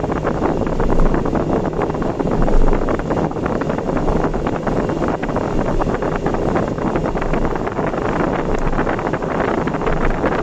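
Steady road and wind noise of a car driving at speed on an expressway.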